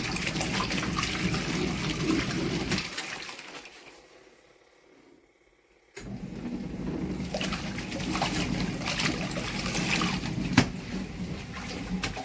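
Water swishing and trickling in a portable twin-tub washing machine, over the low hum of its motor. The sound fades away about three seconds in and starts again abruptly about six seconds in.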